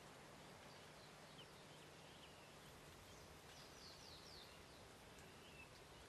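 Near silence: a faint steady hiss with a few faint, short, high bird chirps, a quick run of them about midway.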